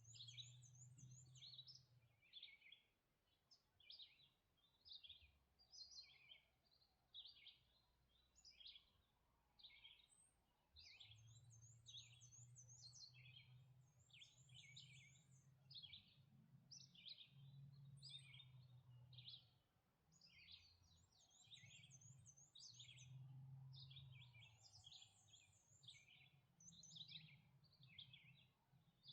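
Faint dawn birdsong from several songbirds: a steady run of short, quick sweeping notes, about one or two a second, with a higher, rapid trilled phrase breaking in again and again. A low hum comes and goes underneath.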